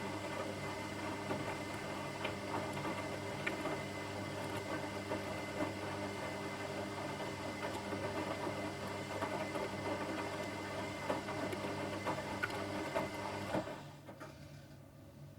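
Washing machine running: a steady motor hum with small irregular clicks and knocks from the drum. Near the end it cuts out suddenly, leaving a fainter hum.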